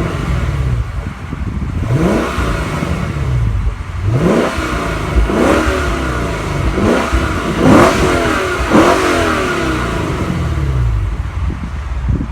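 2016 Lexus GS F's 5.0-litre V8 exhaust as the engine is revved in short throttle blips, each rising sharply in pitch and falling back toward idle, about six in quick succession with the highest near the middle.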